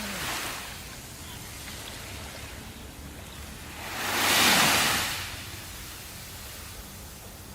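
Sea waves on a shore: a steady wash of surf, with one wave swelling, breaking loudly about halfway through and falling away.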